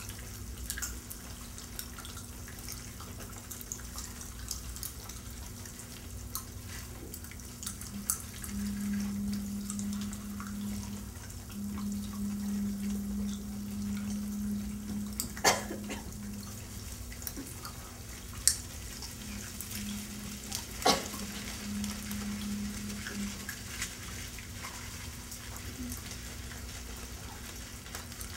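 Pop Rocks candy fizzing and crackling in many open mouths at once: a dense, fine patter of tiny pops with a few sharper clicks. A low steady hum comes and goes through the middle.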